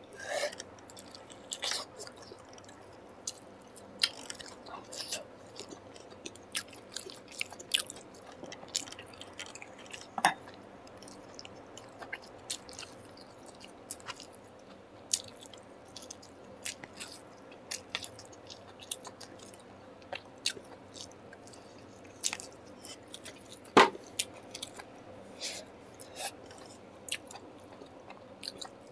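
A person chewing food close to the microphone, with many irregular wet mouth clicks and smacks. One click near the end is much louder than the rest.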